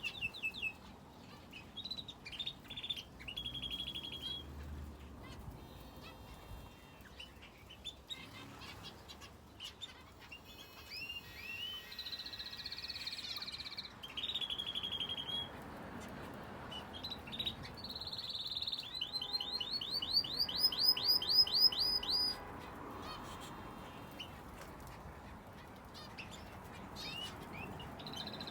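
Aviary finches and a canary chirping and calling, with short repeated notes throughout. Near the middle comes the loudest part, a fast trill of rising notes at about eight a second that lasts about three seconds.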